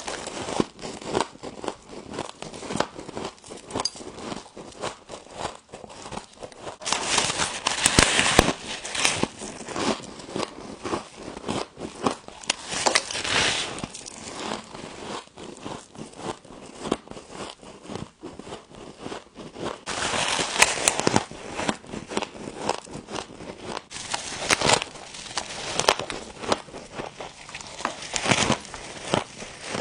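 Frost crunching and crackling as it is eaten, a steady stream of crisp crackles with louder crunching every few seconds.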